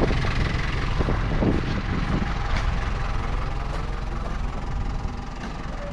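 Truck engine idling steadily at the curb, with a few faint knocks over it.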